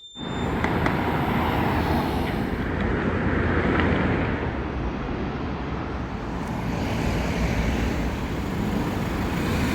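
A steady, loud rumbling noise that starts abruptly.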